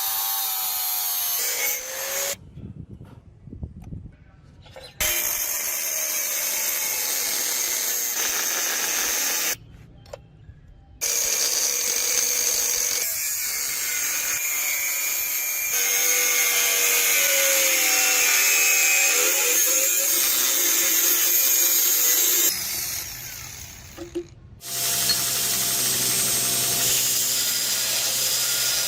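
An electric power tool working the steel of a drill bit that is being shaped into a knife. Its motor whine wavers and dips in pitch as it takes load. The sound drops away briefly three times, at about three seconds, ten seconds and twenty-three seconds in.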